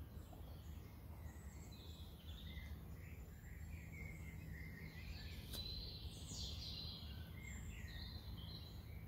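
Birds chirping faintly: scattered short chirps, with a high downward-sliding call about six seconds in. Under them runs a steady low hum, and there is a single sharp click a little past halfway.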